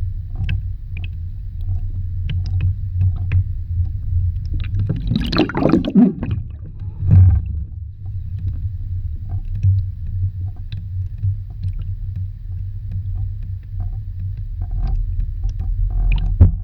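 Underwater ambience: a steady low rumble with scattered small clicks and crackles, broken by a loud rushing burst about five seconds in and a shorter one near seven seconds.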